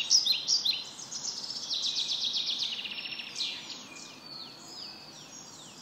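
Songbirds chirping: bursts of short high chirps, a fast trill about two seconds in, then a run of falling whistled notes.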